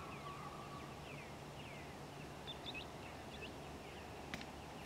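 Faint birdsong: many short, falling whistled chirps from a few birds over a low, steady hum, with a single sharp click about four seconds in.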